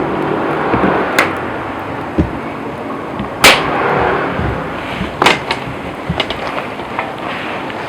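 Wood campfire burning with a steady rushing hiss and sharp crackles and pops of the burning wood, the loudest pop about three and a half seconds in and another strong one about five seconds in.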